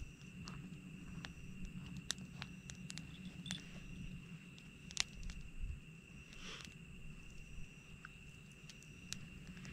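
Wood campfire crackling, with scattered sharp pops at irregular intervals, the loudest about halfway through, over a steady high insect trill.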